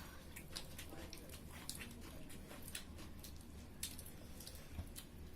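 Faint eating sounds: soft, irregular clicks and smacks of people chewing pork curry and rice, over a low steady hum.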